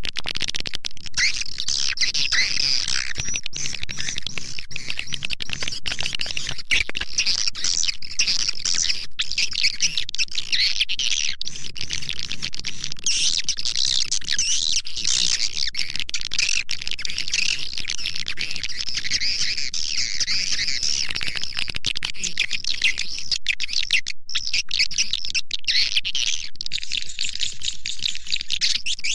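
Swiftlet lure call: a dense, unbroken chorus of edible-nest swiftlet chirps and twitters, the kind of call track played to draw swiftlets into a nesting house.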